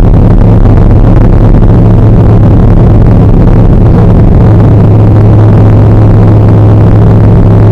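Light aircraft's piston engine running steadily at full power during the takeoff run, very loud as heard in the cockpit.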